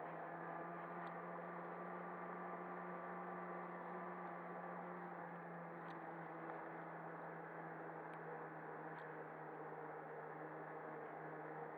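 Snowmobile engine running at a steady speed, its note holding constant, with a few faint ticks.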